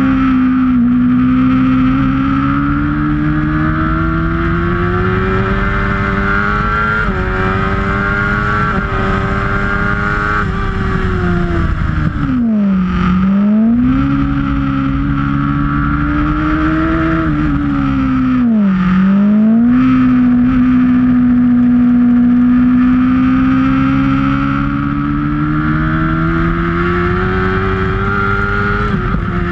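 Sportbike engine running hard on a racetrack lap, with a steady rush of wind. Its pitch climbs gradually and drops away sharply twice, about twelve and eighteen seconds in, as the throttle shuts for corners, then climbs back.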